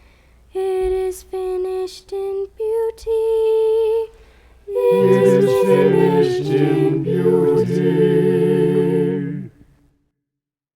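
Unaccompanied voices singing: a single voice sings four short notes and then holds a higher note, and after a short pause several low and high voices join in a held chord for about five seconds before stopping.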